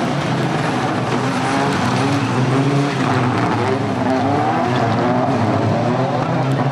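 Rallycross supercars' turbocharged four-cylinder engines racing on track, their pitch rising and falling repeatedly as they rev through the gears.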